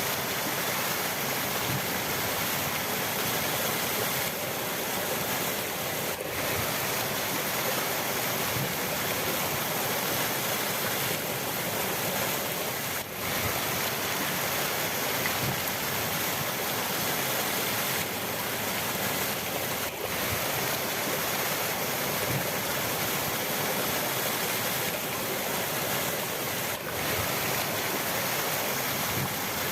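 River water rushing steadily, an even, dense hiss of flowing water with a few momentary dips in level.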